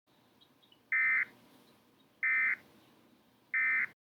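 Three short bursts of warbling digital data tones, the Emergency Alert System's SAME end-of-message code, each about a third of a second long and about 1.3 seconds apart. They mark the close of the emergency alert broadcast.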